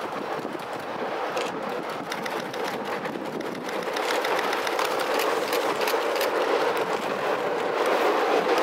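E001 series 'Train Suite Shiki-shima' cruise train running across a girder bridge toward and past the listener: a steady rumble of wheels on rail that grows louder from about four seconds in, with the clickety-clack of wheels over rail joints coming in near the end.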